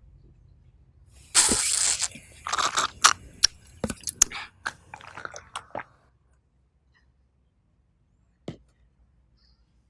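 Close-miked ASMR eating: crisp biting and crunchy chewing, a quick series of sharp crunches lasting about four seconds. It then goes quiet apart from a single click near the end.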